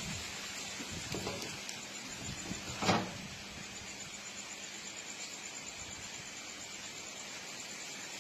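Outdoor ambience: a steady high hiss with a few short, soft brushing sounds, the loudest about three seconds in.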